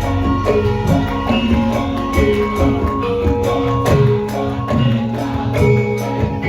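Javanese gamelan music: ringing metallophone notes over a steady run of drum strokes.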